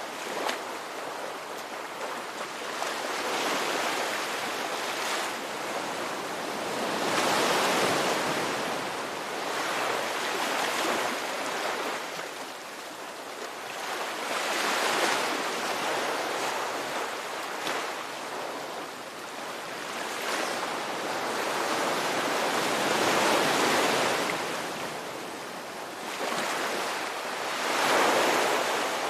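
Ocean waves breaking and washing on the shore in a continuous hiss, swelling and ebbing in surges every few seconds.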